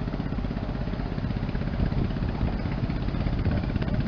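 Engine of an Amazon river ferry running steadily underway, a continuous rapid low throb.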